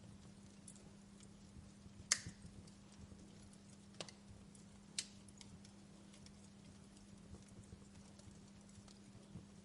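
Wood fire crackling softly: scattered small ticks with a few sharper pops, the loudest about two seconds in, over a steady low hum.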